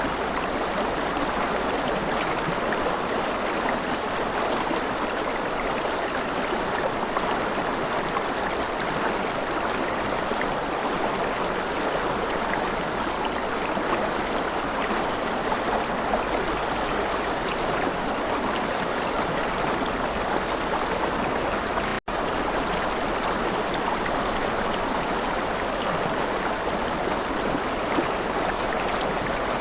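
River water flowing and splashing in a steady, even rush. It cuts out for an instant about two-thirds of the way through, then carries on unchanged.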